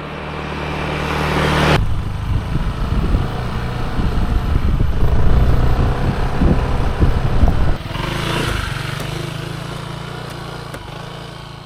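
Honda PCX125 scooter's single-cylinder engine running, getting louder over the first two seconds. From about two to eight seconds in the sound turns rough and rumbling, then it goes back to a steady hum that fades away.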